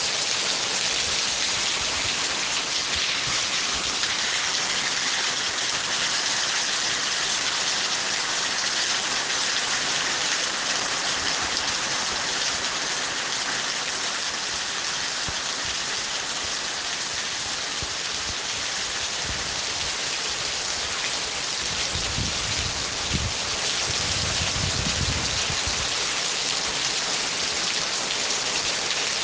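Steady, dense rainfall hissing on surfaces. A low rumble rises under it about three-quarters of the way through and fades a few seconds later.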